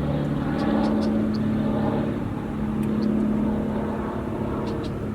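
An engine running steadily with a low, even hum, and a few faint, short, high chirps over it.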